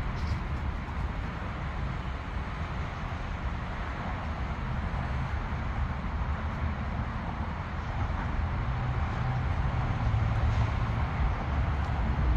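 Steady low rumble, growing slightly louder in the last few seconds.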